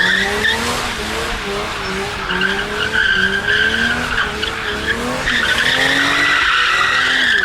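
A drifting car's tyres squeal continuously, getting louder about five seconds in, while its engine runs at high revs that rise and fall as the driver works the throttle.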